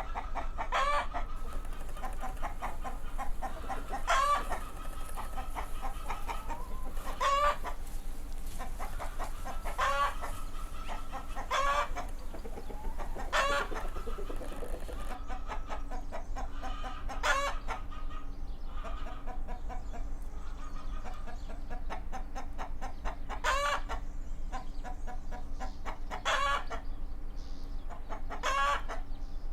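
Chickens clucking, with short calls every couple of seconds and fainter clucking between them.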